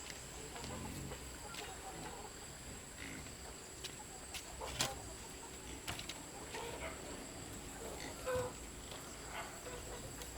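Chickens clucking faintly, with scattered sharp clicks and knocks, one louder near the middle.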